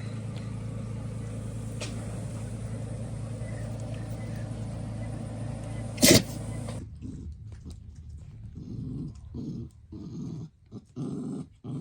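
A steady low drone with one sharp, loud knock about six seconds in; then dogs growling in short repeated bursts as they play.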